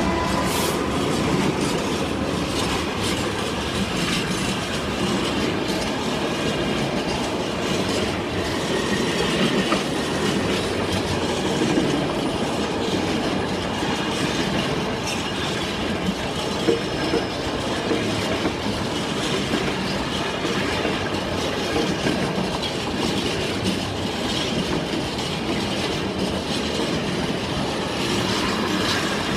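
Long freight train headed by a Class 66 diesel locomotive passing close by, its wagons' wheels clattering steadily over the rail joints.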